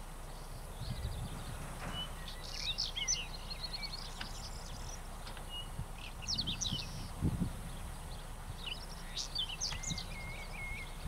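Songbirds chirping and whistling, many short high-pitched calls scattered throughout, over a low steady rumble.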